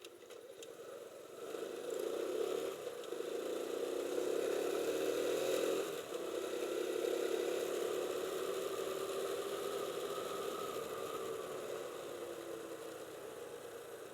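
Motorcycle engine pulling away and speeding up, with a brief dip in sound about six seconds in, then running steadily and slowly easing off.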